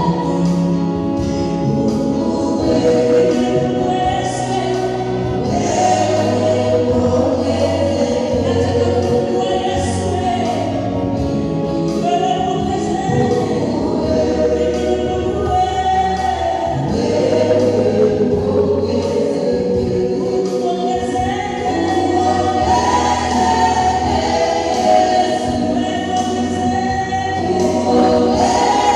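A gospel choir singing a church song with instrumental backing, its steady low bass notes running under the voices.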